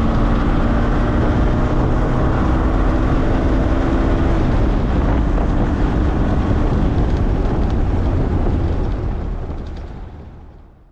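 Morgan sports car's engine running under way, heard on board with wind noise. The engine note holds steady, softens about four and a half seconds in, and fades out over the last few seconds.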